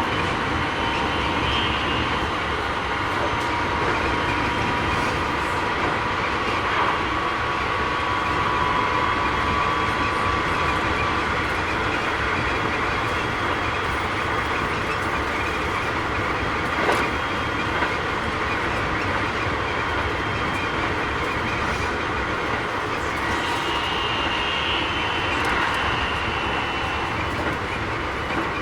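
Keikyu 1000 series electric train running at speed: steady wheel-on-rail rumble with a steady whine from its Mitsubishi IGBT-VVVF traction drive, and a single clack from the track about 17 seconds in. This set's drive sounds a little louder than others of the class.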